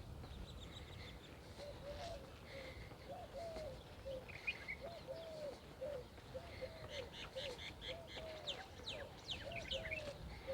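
Birds calling: a run of short rising-and-falling notes repeated about twice a second, with quicker, higher chirps of small birds joining in the second half.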